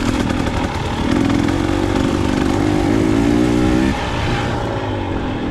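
Dirt bike engine under throttle, its pitch climbing for a few seconds, then dropping about four seconds in as the throttle is rolled off.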